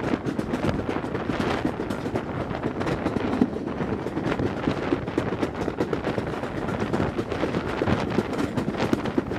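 Steam-hauled passenger coaches running along the line, heard from an open carriage window: a continuous rattling clatter of wheels and running gear on the track, with wind rushing past.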